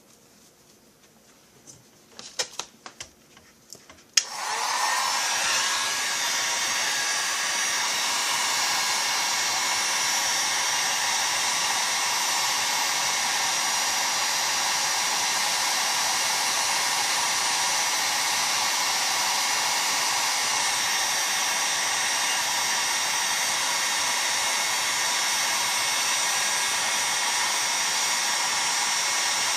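A few handling clicks, then a heat gun switched on with a click about four seconds in, its fan running with a steady rush. It is heating the aluminium chainsaw crankcase so the bearing and oil seal can be fitted.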